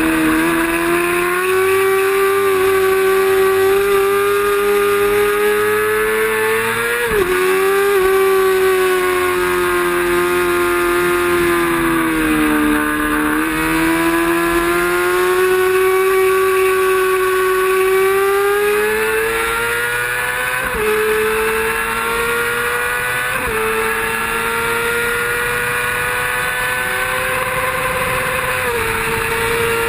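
Racing motorcycle engine at high revs, held at full throttle. Its note climbs steadily and drops sharply at upshifts, about a quarter of the way in and several more times near the end. Midway it falls as the throttle is rolled off, then climbs again.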